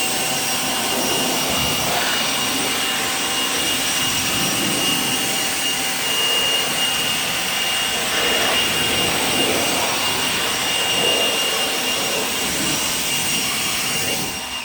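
Blower running steadily at full speed with a high whine, blowing rinse water out of a car's engine bay to dry it. It shuts off at the very end.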